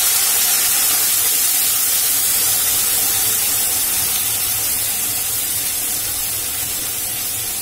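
Wet ground spice paste of cumin, ginger and dried chilli sizzling hard in hot oil in a wok with fried potatoes. It is a steady loud hiss that slowly dies down as the paste's water cooks off.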